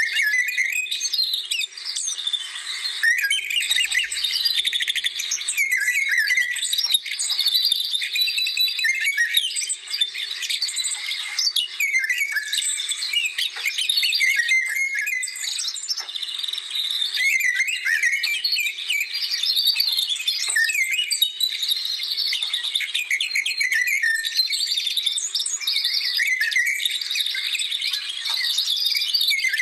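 Birdsong chorus: many small birds chirping and singing at once, with quick overlapping notes that rise and fall without a break. A faint steady low hum runs underneath.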